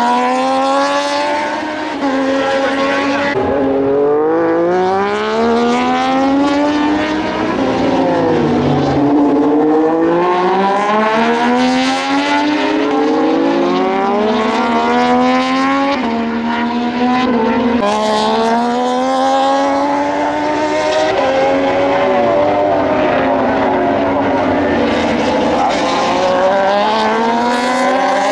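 Moto2 race bikes' Triumph 765 cc three-cylinder engines at full throttle as several bikes pass in a loose group. Their pitch climbs again and again and drops back at each upshift, with the engine notes overlapping.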